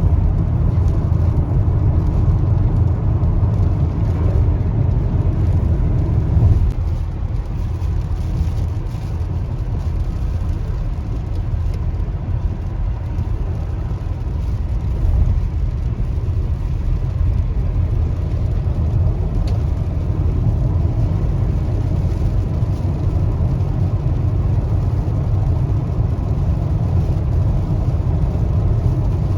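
Car driving, a steady low rumble of tyres and engine heard from inside the cabin; it eases a little about six seconds in.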